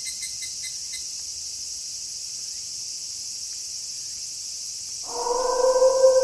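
Night crickets chirping steadily in a high, even drone, with a pulsing trill that stops about a second in. About five seconds in, a wolf begins a long, steady howl on one held note, louder than the crickets.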